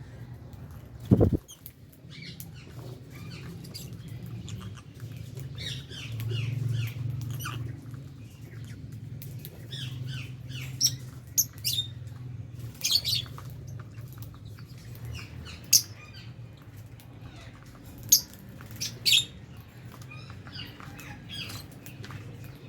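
Lovebirds chirping and squawking, with short sharp calls scattered throughout and clustering in the second half. A dull low thump about a second in is the loudest sound, over a steady low hum.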